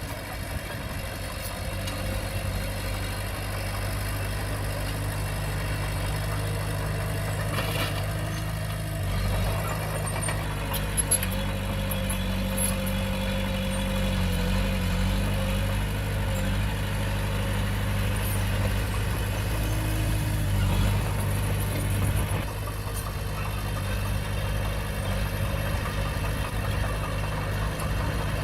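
Komatsu D20P bulldozer's diesel engine running steadily, its note shifting about nine seconds in and again a little past twenty seconds.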